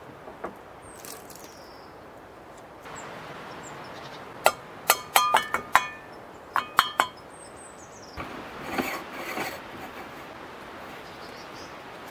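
Sharp metallic clinks with a brief ring, about a dozen close together in the middle, as the parts of an aluminium stovetop moka pot and a spoon are handled while it is filled with coffee. About eight seconds in, a short stretch of scraping and rubbing follows.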